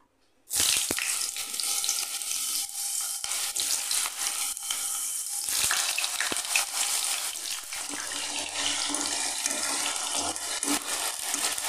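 Thin-sliced potatoes sizzling in hot oil in a pan, starting suddenly about half a second in and hissing steadily, with small clicks from a spatula stirring them near the end.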